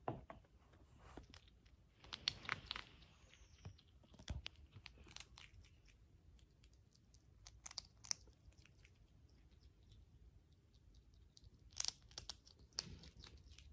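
Faint, scattered crunching clicks, with louder clusters about two seconds in and near the end.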